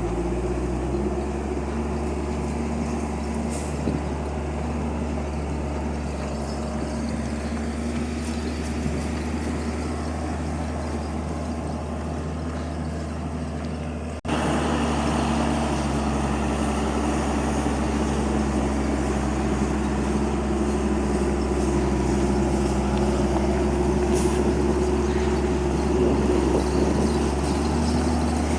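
Hino truck's diesel engine running steadily at an even pitch. There is a sudden break about halfway through, after which it is a little louder.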